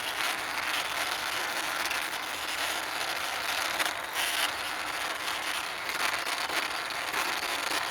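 A toy double-decker bus rolling along a surface as it is pushed: a steady rolling rattle from its wheels, flecked with small clicks.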